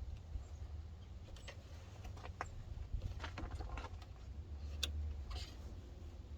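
Scattered faint clicks and light knocks of a camera mount being handled and repositioned, over a steady low hum.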